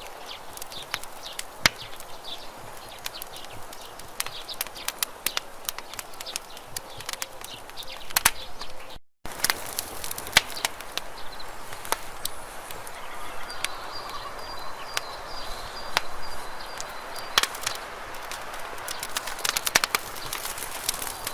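Campfire burning, the wood crackling and popping in irregular sharp snaps over a soft steady hiss. The sound cuts out for a moment about nine seconds in, and a faint high whistle is heard for a few seconds after the middle.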